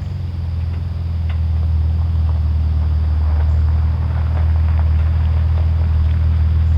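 A vehicle driving, with a steady low drone of engine and road noise that grows louder, and light scattered rattles.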